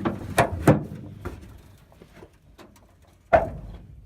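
Hammer blows on a seized gooseneck hitch ball in a truck bed: two sharp metal strikes close together near the start and a third near the end, each with a short ring.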